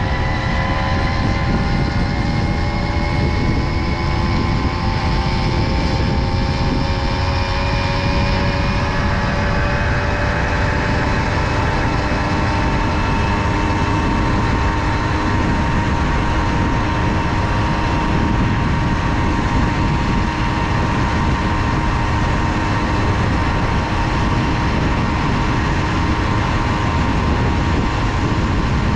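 Tomos Silver Bullet moped's small two-stroke engine running under way, its pitch slowly climbing, over a steady low rumble.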